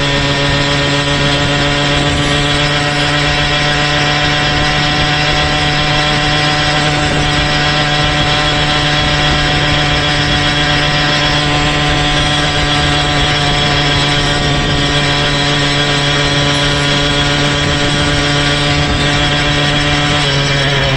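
Motorized bicycle's small engine running under steady throttle at an even speed. Near the end the engine speed drops briefly and then picks up again.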